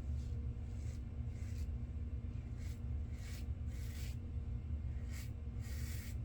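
Soft rubbing or scraping strokes, about nine short ones at uneven intervals, over a steady low hum.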